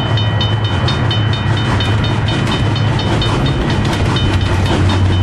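Arriving diesel passenger train: a steady, loud low engine hum with a fast, even metallic clicking, about five ticks a second, running over it.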